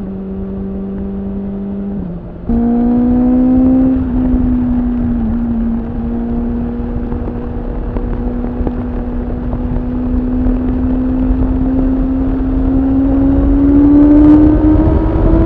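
BMW S1000RR's inline-four engine running through an Akrapovič slip-on exhaust while riding, with low rumble underneath. The note dips briefly about two seconds in, comes back louder and higher on the throttle, then rises gradually near the end as the bike accelerates.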